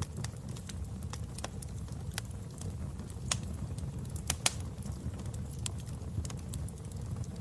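Wood fire in a fireplace crackling, with irregular sharp pops over a steady low rumble; the loudest pops come a little past the middle.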